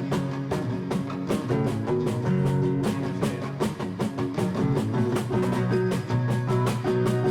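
Rock band playing an instrumental groove: guitar over a drum kit keeping a steady, quick beat.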